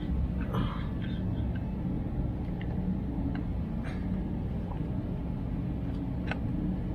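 A few light clicks and taps, with a short scrape about half a second in, from hand tools working screws and bolts out of the steering column, over a steady low rumble.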